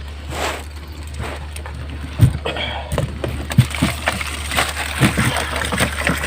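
Water sloshing and splashing against a small fishing boat while crayfish traps are hauled in. A series of sharp knocks and clunks starts about two seconds in, over a steady low hum.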